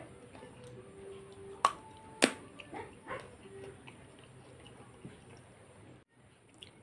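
Close-up eating sounds of a man chewing a mouthful of food: soft wet mouth noises, with two sharp clicks about half a second apart a little under two seconds in.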